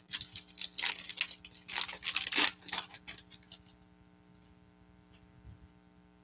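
A trading card pack being opened: the wrapper crinkles and tears in a quick run of short rustles for about three and a half seconds. After that it falls quiet apart from a low steady electrical hum.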